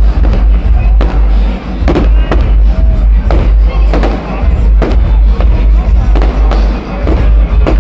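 Fireworks display: a rapid series of firework shells bursting, about one to two loud bangs a second, over a heavy low rumble.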